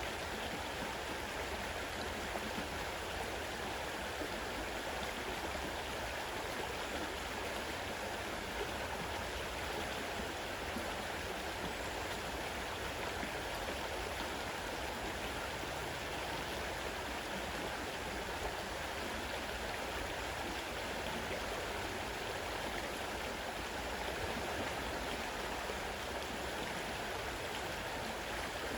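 Fast-running river water rushing over rocks in a steady wash of noise that doesn't change.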